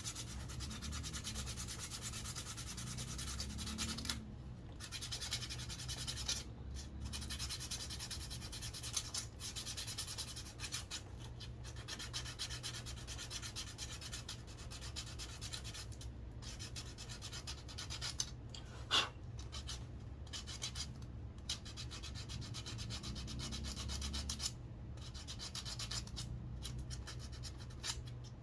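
Sandpaper rubbing along a wooden walking stick, a continuous rasping broken by a few brief pauses between strokes, with one sharp tick about two-thirds of the way through.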